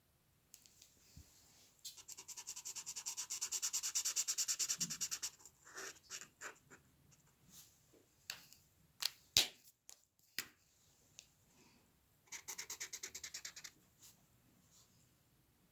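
Hand drawing on paper: fast back-and-forth strokes of a drawing tool, as in shading, in a long run of about nine strokes a second and a shorter run near the end, with scattered single scratches and small taps between.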